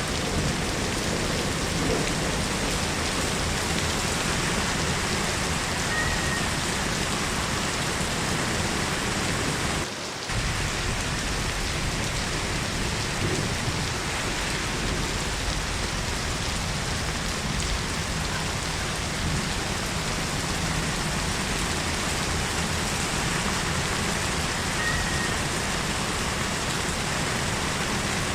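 Heavy rain falling steadily as a dense, even hiss, with a brief dip in level about ten seconds in.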